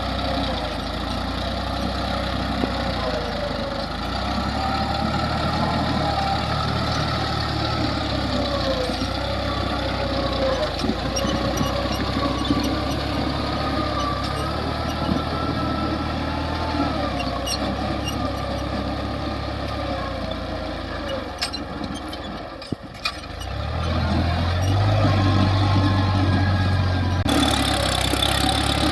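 New Holland tractor's diesel engine running during field work, its pitch wavering as the load changes. About 23 seconds in it dips briefly, then comes back louder and deeper.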